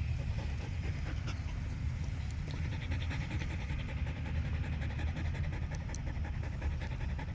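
A dog panting in quick, even breaths, plainest from about two and a half seconds in, over a steady low rumble.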